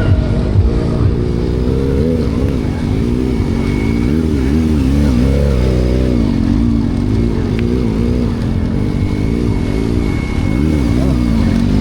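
Car engine revving over and over, its pitch rising and falling, with a thin steady high whine through much of it.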